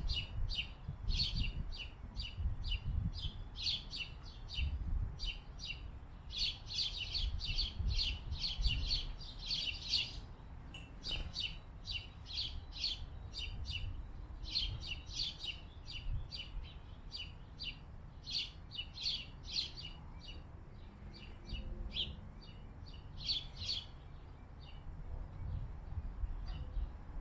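Small birds chirping in rapid runs of short, quick notes, bout after bout with brief pauses between, over a low rumble.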